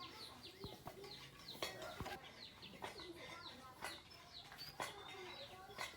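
Faint bird chirping: many short, high, falling notes in quick succession, with light clicks and knocks scattered among them.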